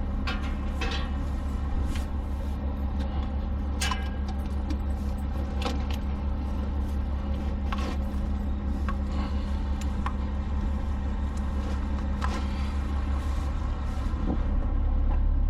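A large engine idling steadily, with a steady hum that stops near the end and scattered clicks and knocks from equipment being handled.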